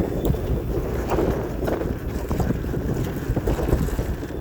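Wind buffeting the microphone of a camera carried on a moving electric mountain bike: a steady low rumble.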